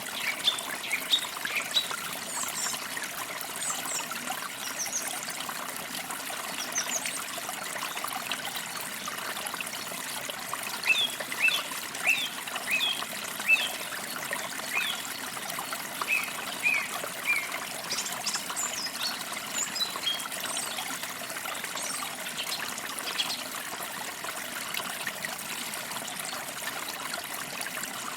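Forest stream trickling steadily, with small birds chirping over it in short bursts of quick notes near the start, in the middle, and again a little later.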